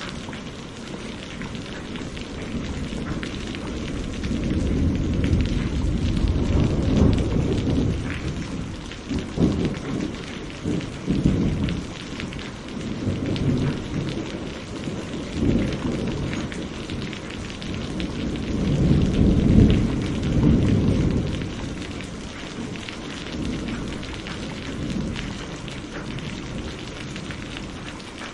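Steady heavy rain with thunder rolling in low, rumbling waves. Several rumbles swell and fade, and the loudest comes about two-thirds of the way through.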